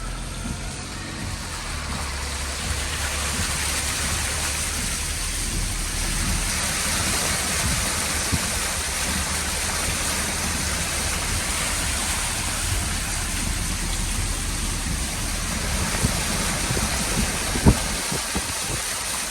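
Steady hiss of heavy rain and running water over a car engine running low, with one sharp click near the end.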